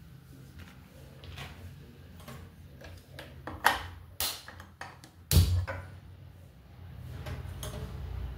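Kitchen things being handled: scattered clicks and knocks, a few sharp ones past the middle and one heavy thump about five seconds in.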